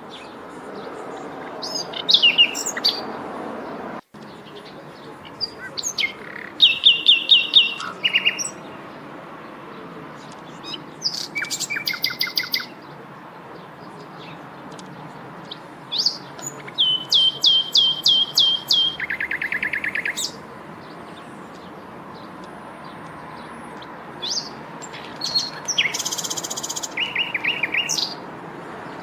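Songbirds singing in separate phrases: quick series of repeated whistled notes and short downward-sweeping calls, with pauses between phrases, over a steady background hiss.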